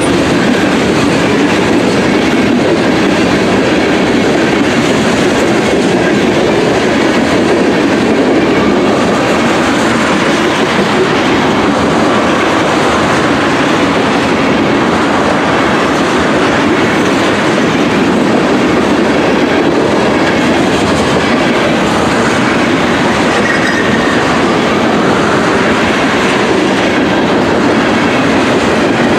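Freight train of tank cars and covered hoppers rolling past close by: a loud, steady rumble of steel wheels on the rails.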